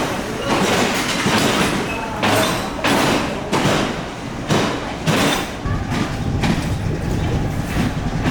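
Train running on the rails, its wheels clacking over the rail joints again and again over a steady rumble that grows heavier near the end.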